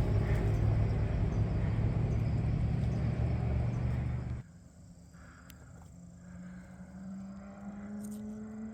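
A motor vehicle's engine running close by, a steady low drone that cuts off abruptly about four seconds in, leaving a much fainter hum.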